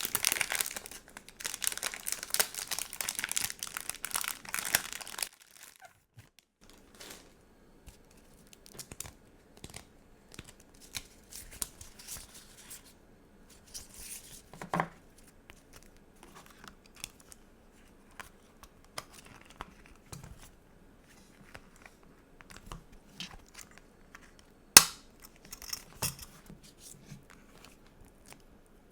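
Plastic sticker packaging crinkling and tearing for about five seconds, then quieter scattered taps and rustles of stickers being handled, with a sharp click near the end.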